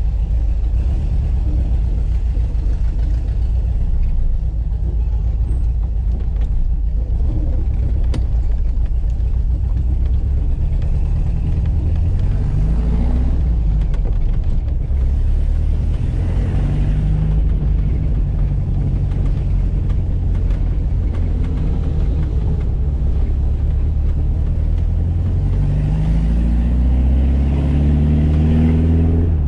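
1985 Volkswagen Fusca's air-cooled flat-four boxer engine running on the road with a heavy low rumble. Its pitch climbs as it accelerates, about three times: near the middle and again near the end.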